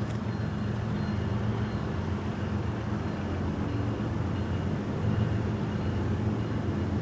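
Diesel locomotive engine running with a steady low drone, a little louder about five seconds in.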